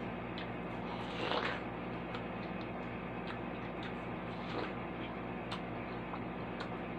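Eating watermelon: crisp, wet bites into the flesh about a second in and again around four and a half seconds, with small clicking chewing sounds in between, over a steady background hum.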